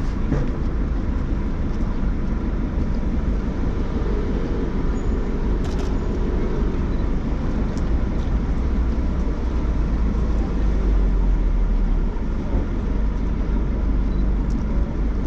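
Steady city street noise in the rain: road traffic with a deep, continuous rumble, and a single sharp click about six seconds in.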